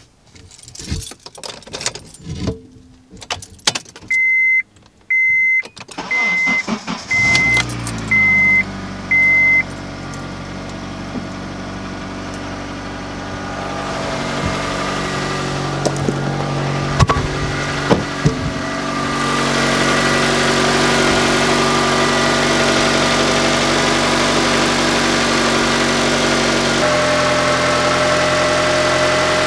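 Honda CR-V's 2.4-litre four-cylinder engine, fed from a lithium jump pack, starts about seven seconds in and settles into a steady idle. Knocks and clicks come first, and six evenly spaced high beeps sound around the start. The idle grows louder about halfway through and again later.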